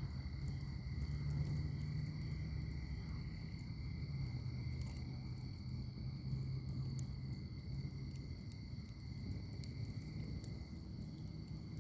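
Wood fire in a fire pit crackling, with scattered small sharp pops over a low steady rumble of the flames. Two steady high-pitched tones run behind it.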